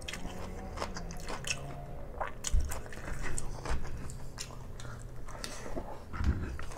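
Close-miked eating sounds of a person biting and chewing grilled squid: irregular wet smacks and clicks, with a few louder bites spread through.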